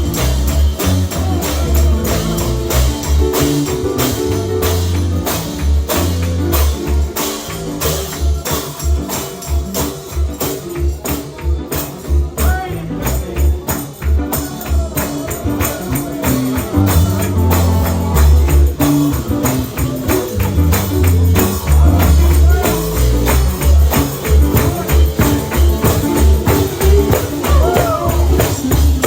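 Live gospel band music with a pulsing bass line and fast, steady tambourine-like percussion, with some voices singing over it.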